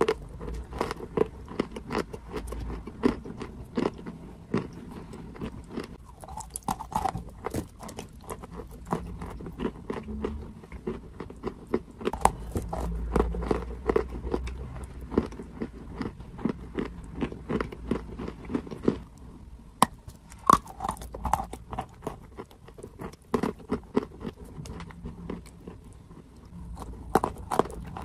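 Biting and chewing of dry, crumbly clay close to the mouth: a dense, irregular run of sharp crunches and crumbling clicks.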